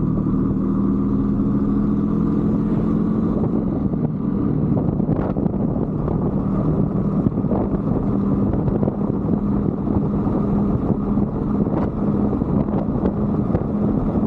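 125cc Brixton motorbike's single-cylinder engine running at a steady, even speed while being ridden, with rumble from the ride underneath.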